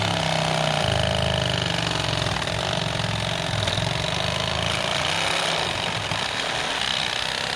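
Reciprocating saw (sawzall) cutting through a downed tree log under bind, running steadily with its fast stroke; the pitch shifts briefly about a second in.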